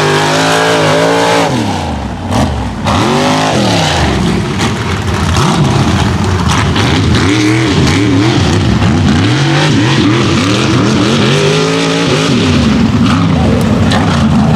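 Mega truck's engine revving hard and easing off again and again as the truck races the course, its pitch swooping up and down every second or two, with a short drop in loudness about two seconds in.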